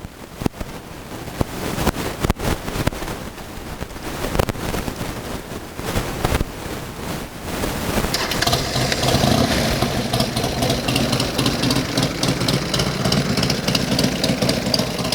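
A few scattered clicks and knocks, then about eight seconds in the 1203 cc air-cooled V-twin of a 2000 Buell X1 Lightning with race exhaust and race ECU starts and settles into a lumpy, uneven idle.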